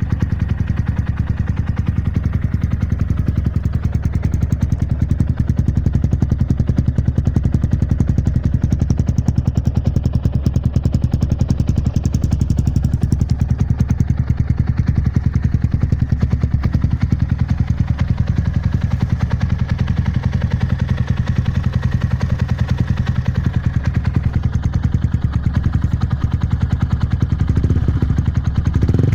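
Engine idling steadily through a 100×300 straight-through muffler, a deep, even exhaust burble with no revving.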